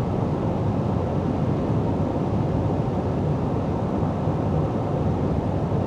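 Steady road and engine noise heard inside the cab of a pickup truck cruising at highway speed.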